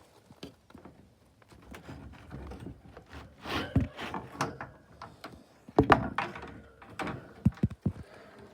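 Wooden hut door being worked open: a string of knocks, thunks and rattles from the door and its fittings. The loudest come about four and six seconds in, with a quick run of small knocks near the end.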